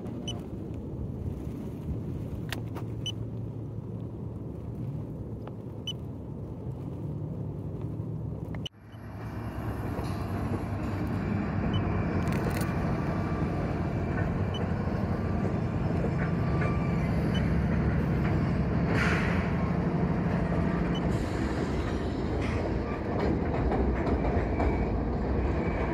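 Freight train running across a steel railroad bridge, a steady low rumble that drops out for an instant about nine seconds in and then comes back louder.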